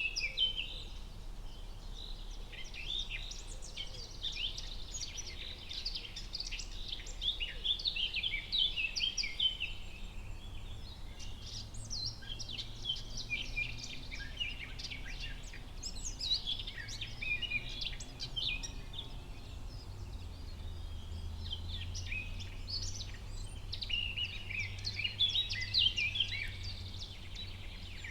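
Forest ambience with several birds chirping and singing in overlapping short phrases, over a faint low background rumble.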